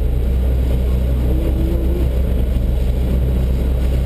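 Brush truck's engine running steadily with a constant low rumble.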